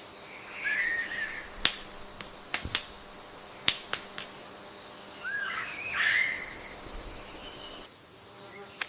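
Jungle ambience: two brief chirping calls about five seconds apart, with several sharp clicks between them and a faint steady high-pitched hum underneath.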